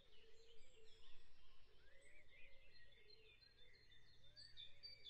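Near silence: room tone with faint bird chirping in the background.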